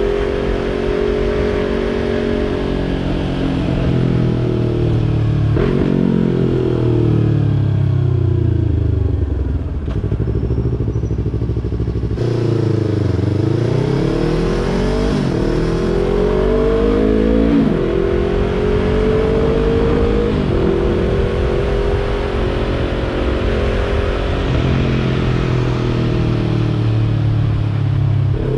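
Yamaha YZF-R3's parallel-twin engine through a Yoshimura exhaust under way. The engine slows with falling revs around the middle, then accelerates again with two quick upshifts that drop the pitch, and settles into a steady cruise.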